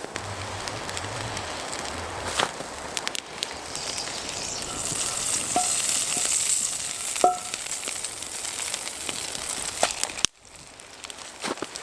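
Food sizzling in a pan over a campfire, the hiss strongest in the middle, with sharp pops and crackles from the fire and two brief metallic clinks. The sizzle cuts off abruptly about ten seconds in, leaving the fire crackling.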